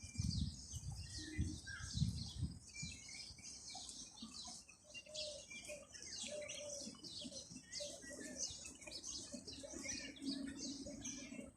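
Many small birds chirping in a dense, continuous chorus of short high notes, with a few low thumps in the first few seconds.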